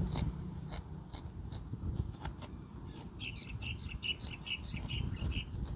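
Close-up chewing with wet mouth clicks as a man eats grilled fish by hand. About three seconds in, a bird gives a fast, even series of high chirps lasting about two seconds.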